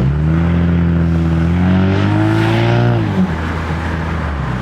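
Car engine accelerating under hard throttle, its pitch rising steadily for about three seconds, then falling away as the throttle is lifted.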